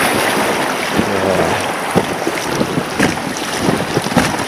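Wind buffeting the microphone over a steady rush of water around an inflatable boat, with a few brief knocks and splashes.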